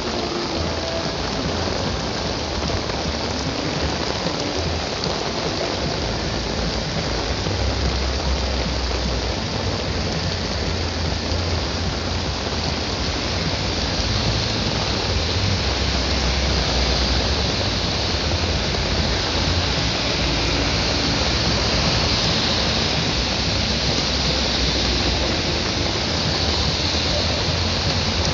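Rain falling in a steady hiss, growing a little louder about halfway through, with patches of low rumbling underneath.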